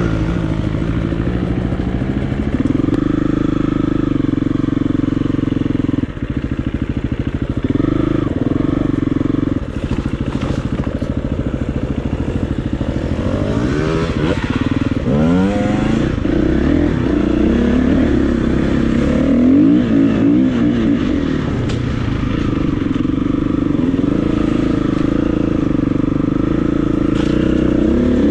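KTM 350 EXC-F's single-cylinder four-stroke engine running under riding load. The revs rise and fall repeatedly around the middle, as the throttle is opened and closed.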